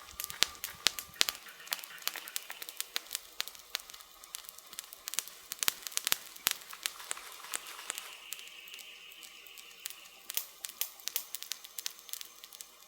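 Wood fire crackling: a dense, irregular run of sharp pops and snaps, some much louder than the rest.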